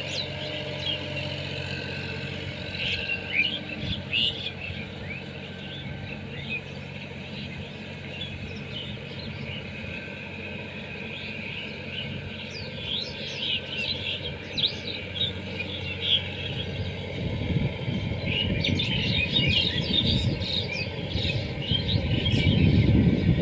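Sonalika tractor's diesel engine running steadily, getting louder over the last several seconds, with birds chirping throughout.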